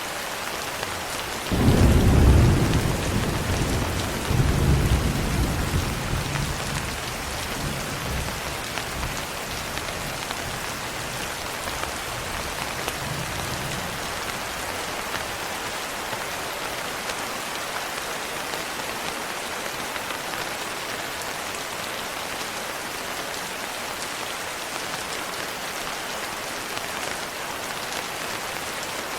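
Steady rain falling, with a roll of thunder breaking out about a second and a half in, surging again a couple of seconds later and rumbling away over the next few seconds.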